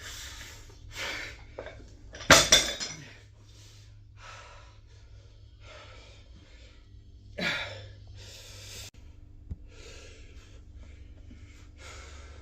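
A person breathing hard in short, forceful exhales, about one a second, some ending in a grunt, typical of effort during a set of a weight-lifting exercise. The loudest exhale comes about two seconds in.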